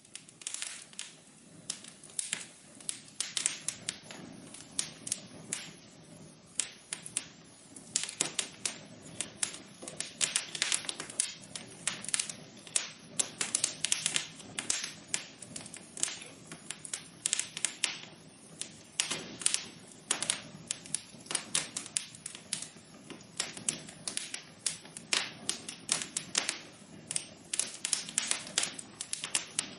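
Wood fire crackling in a fireplace: many irregular sharp pops and snaps, several a second, over a low steady hiss of burning.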